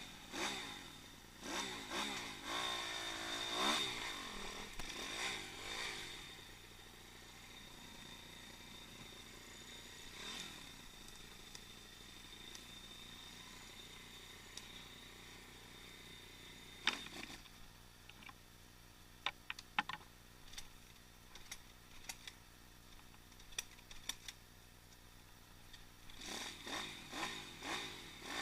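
Pit bike engine revving up and down in repeated rising and falling sweeps, easing to a quieter steady run in the middle, then revving again near the end. Partway through, a series of sharp knocks and clatter sounds over the engine. The whole is heard from a camera mounted on the bike.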